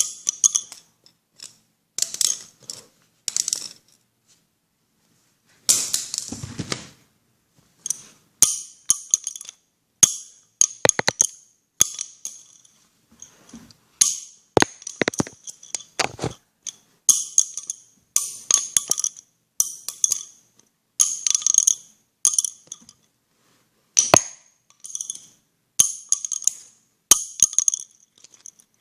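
Repeated short clinking, jingling bursts, roughly one a second with a few longer pauses, ringing high and bright.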